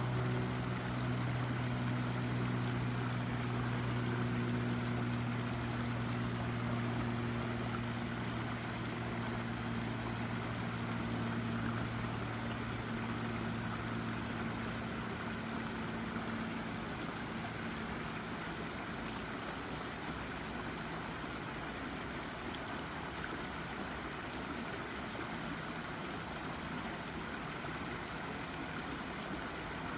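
Brook water running and babbling over a rock, a steady even rush. A low droning hum sits under it at first and fades out about halfway through.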